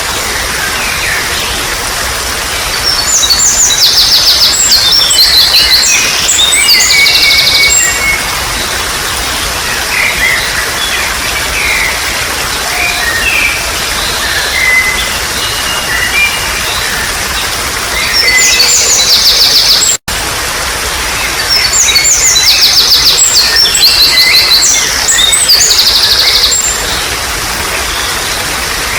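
Wild songbirds chirping and giving rapid trills over a steady rush of babbling water. About twenty seconds in the sound cuts out for an instant and the same stretch of birdsong repeats.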